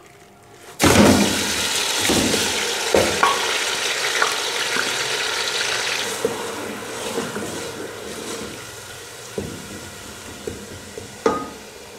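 Onion paste hitting hot cooking oil in a metal pot: a loud sizzle starts suddenly about a second in and slowly dies down. A wooden spoon knocks against the pot a few times as the paste is stirred.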